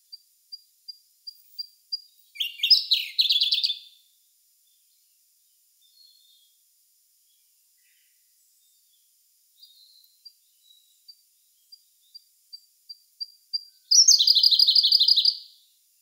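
Siberian blue robin singing twice: each song opens with a run of soft, high ticking notes that speed up and grow louder, then breaks into a loud, rapid trill lasting about a second and a half.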